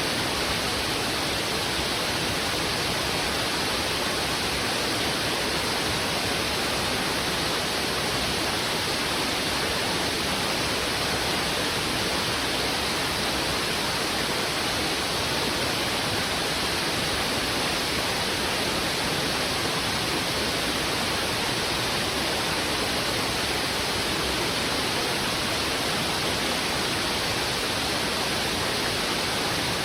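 Heavy river water rushing fast over rocks, a steady, even roar of flowing water with no separate splashes standing out.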